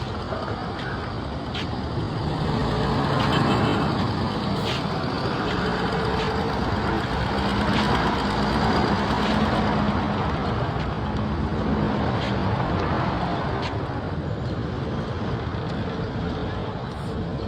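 Road traffic going past: vehicle engines and tyres swell louder as they pass, several times, with a heavy engine humming steadily through the middle.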